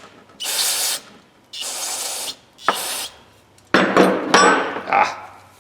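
Three short hisses of aerosol carburetor cleaner sprayed onto a grimy adjustable wrench. These are followed by a run of sharp metallic knocks and rattles as the wrench is knocked to shake the grit loose.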